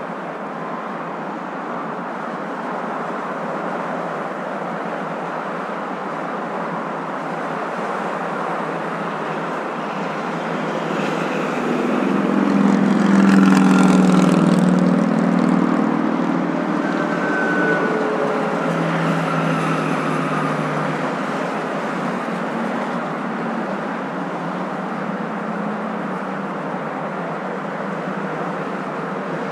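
Steady road noise of a moving car, a continuous hum and rush. About halfway through, a louder engine swells up and fades away, as another vehicle passes.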